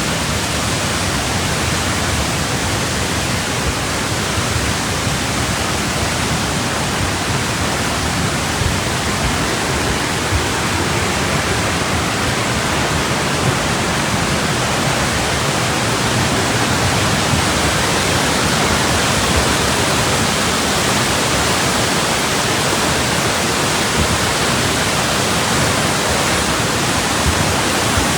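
Loud, steady rush of water that holds even and unbroken throughout, with no single splashes or knocks standing out.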